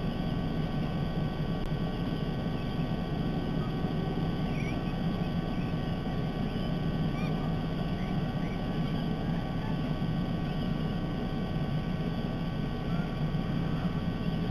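Steady low rumble of outdoor background noise picked up by a nest-camera microphone, with a few faint, scattered bird chirps.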